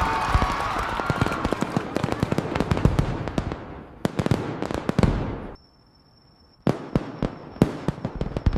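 Fireworks crackling and popping in a dense run that thins out and dies away about five and a half seconds in, then, after a short lull, a few scattered bangs and crackles.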